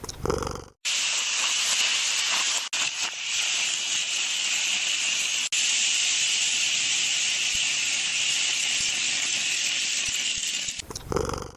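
A steady, even hiss lasting about ten seconds, with a short break a few seconds in, then stopping abruptly near the end.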